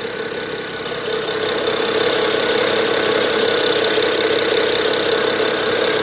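BMW 335i E90 turbocharged straight-six engine running steadily, growing a little louder about a second and a half in.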